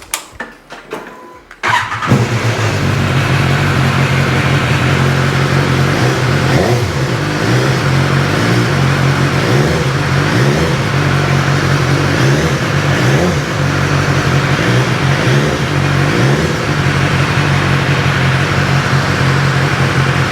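2017 BMW S1000R's inline-four with an Akrapovic exhaust cranking briefly and catching about two seconds in, then running steadily, its pitch wavering slightly in the middle.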